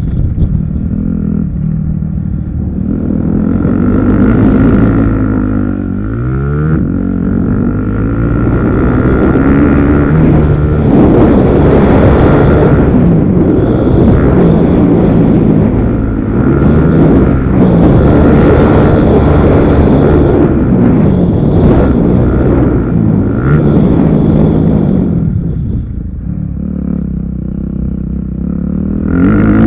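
Motocross motorcycle engines revving, their pitch rising and falling over and over as the throttle opens and closes, with a steady high whine underneath.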